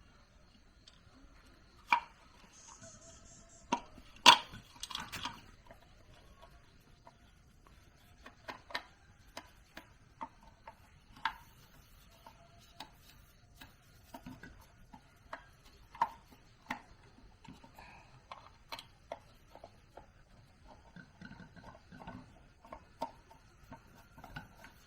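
Irregular sharp clicks and knocks of hand work, with the loudest about two seconds and four seconds in.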